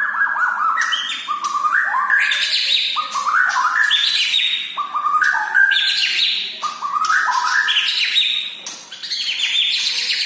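White-rumped shama singing loud, repeated phrases, each a quick run of clear notes stepping upward in pitch, about five phrases one after another.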